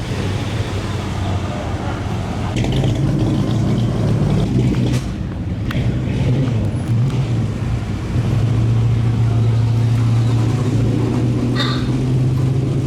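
Car engine running with a steady low rumble, getting louder about eight seconds in.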